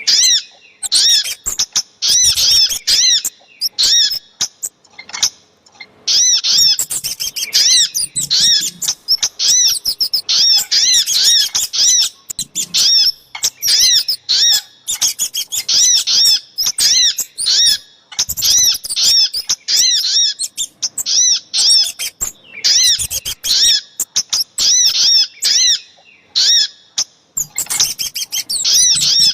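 Bird-lure (pikat) recording of sogok ontong and kemade calls: rapid runs of short, sharp, repeated chirping notes in quick succession, broken every few seconds by brief pauses. It is a lure track, played to draw wild birds in.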